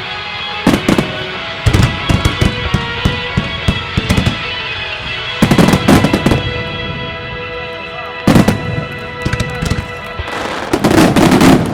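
A music starmine: a pop song plays over loudspeakers while fireworks shells burst in sharp bangs and crackles. The bursts come in clusters about a second in, around two seconds, around six seconds and at eight and a half seconds, ending in a dense flurry near the end.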